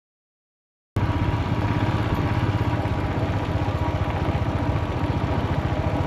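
About a second of dead silence, then a Royal Enfield Himalayan's single-cylinder engine running steadily with an even, fast low pulse.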